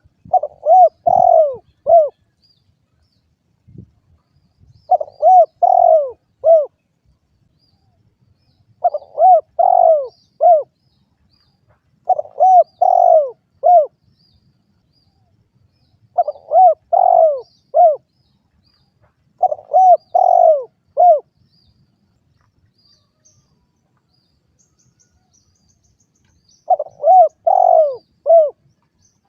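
Derkuku dove cooing: seven phrases of four or five arched coos each, repeated every few seconds, with a longer pause before the last phrase near the end.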